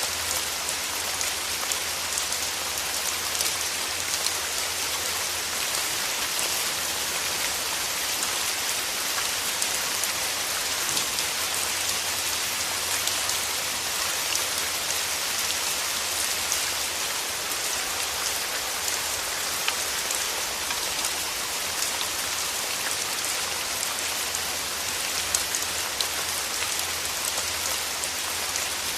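Steady rain falling through forest trees: an even hiss dotted with countless small drop ticks.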